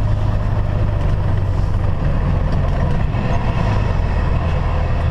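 Semi truck's diesel engine running as the truck drives slowly, heard from inside the cab: a steady low drone with road noise.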